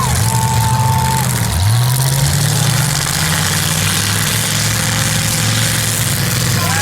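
Big V8 demolition-derby car engines running, one dipping in revs and climbing back about a second and a half in, then settling to a steady run.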